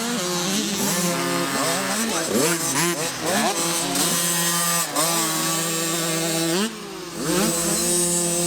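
Several 50cc youth motocross bikes racing, their small two-stroke engines revving up and falling back again and again, the pitches overlapping. The sound drops briefly about seven seconds in, then rises again.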